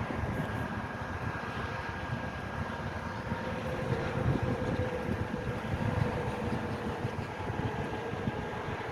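Steady low rumble with wind noise on the microphone, and a faint steady whine above it.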